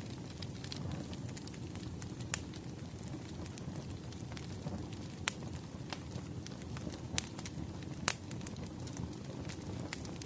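Wood fire crackling: a steady low rumble with small snaps scattered through it and a handful of sharper, louder pops.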